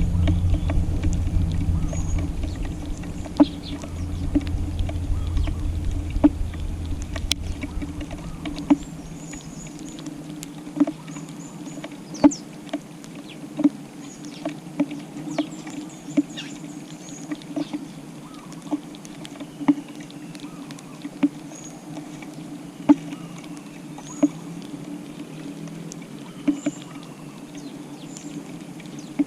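Eurasian tree sparrows pecking grass seed off a tile floor: irregular sharp taps of beaks on the tiles, with faint short chirps. A low rumble fills the first third and stops about nine seconds in.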